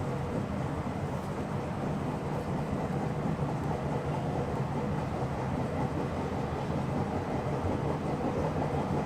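Meitetsu local train running along the track, a steady rumble of wheels and running gear heard from inside the front car, growing slightly louder.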